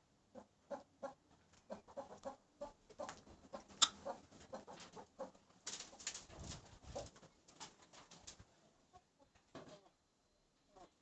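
Young Aseel chickens clucking in a quick run of short calls, with one louder, sharper call about four seconds in; the calls thin out after about eight seconds.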